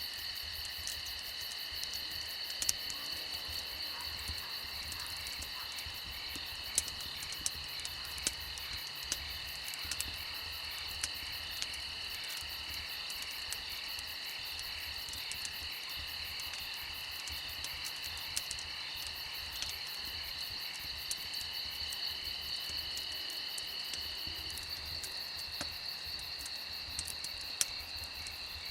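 A steady night chorus of crickets and other insects, several high-pitched trills at once, one of which drops out about three-quarters of the way through. Scattered sharp pops of a crackling wood fire sound over it.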